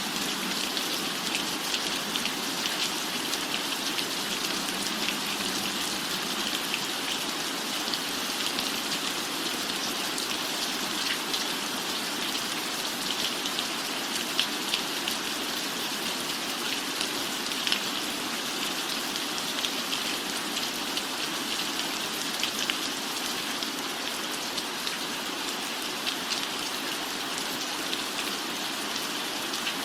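Steady rain falling on a roof, an even hiss with many small, sharp drop taps scattered through it.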